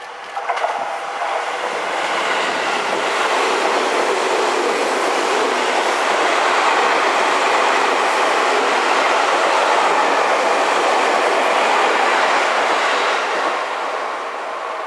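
Seibu 6000-series electric train running through the station without stopping. The rumble and clatter of its wheels on the rails build over the first couple of seconds, stay loud while the cars go by, then fade near the end as the last car passes.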